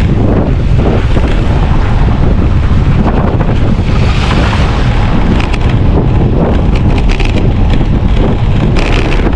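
Loud wind buffeting the microphone of a camera on a moving bicycle: a steady, rumbling noise, with brief scratchy crackles now and then.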